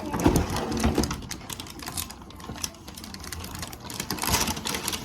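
Irregular, rapid clicking and rattling of small plastic toy pieces being handled.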